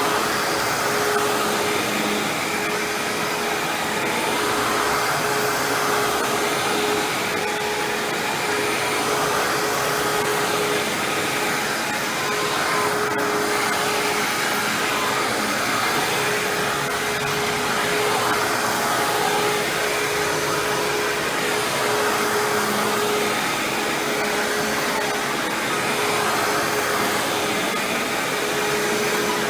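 Hoover WindTunnel self-propelled bagless upright vacuum running steadily while vacuuming: an even rush of air over a constant motor tone. One brief tick about halfway through.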